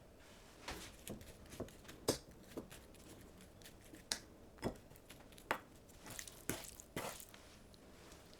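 Light, irregular taps, clicks and soft rustles of kitchen food preparation, a dozen or so short sounds spaced unevenly.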